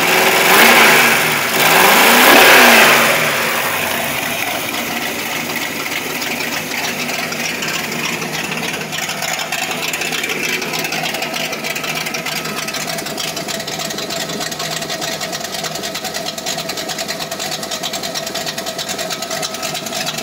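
Freshly built carbureted 5.0 V8 revved twice by hand at the carburetor throttle linkage, then settling into a steady idle. The engine has run less than two hours and is still warming up.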